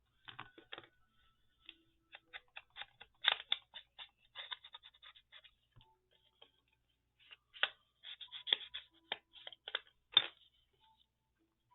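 Scissors snipping paper or card: a run of short, crisp cuts and clicks in two spells with a pause between them.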